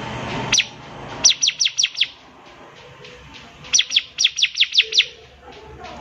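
Bar-winged prinia (ciblek) singing: a single sharp note, then quick runs of high, downward-sweeping notes at about five a second, five in the first run and about eight in the second. A rushing background noise swells and fades in the first second.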